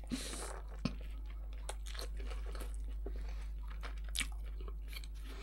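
A person bites into a grilled shawarma wrap, the toasted lavash crunching briefly, then chews it with small wet clicks and smacks of the mouth.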